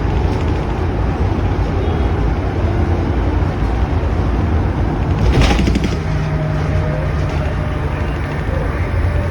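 Steady low rumble of a vehicle on the move, with a brief knock about five seconds in and a steady hum for a couple of seconds after it.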